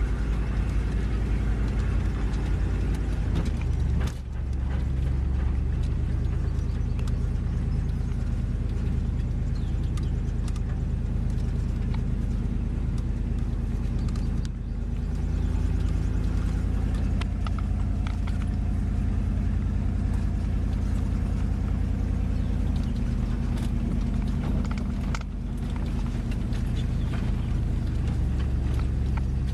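Dodge Ram pickup running on wood gas from a gasifier, its engine and road noise a steady low drone while driving under tow load. The engine eases off briefly three times, about 4, 14 and 25 seconds in.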